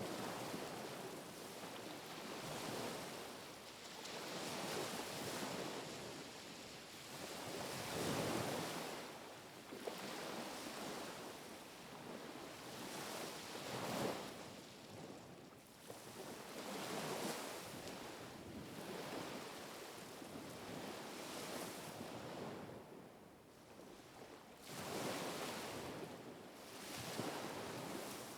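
Small waves washing onto the shore one after another, each rush of surf swelling and fading every few seconds. The surges are stronger about eight seconds in and again about fourteen seconds in.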